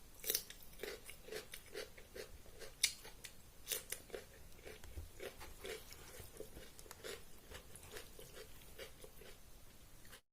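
Close-miked chewing of a mouthful of rice and curry, a steady rhythm of a little over two chews a second, with wet clicks and a few sharper crunches. It cuts off abruptly just before the end.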